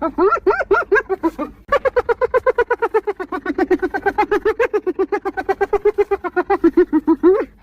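Spotted hyena laughing: quick runs of short pitched notes, about seven a second. A short run comes first, then after a brief pause a long unbroken run that ends on a rising note.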